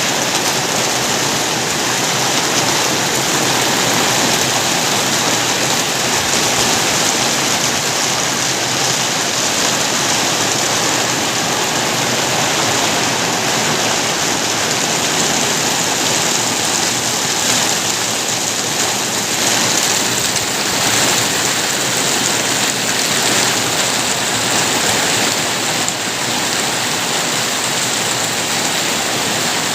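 Steady heavy rain falling, a dense even hiss without a break.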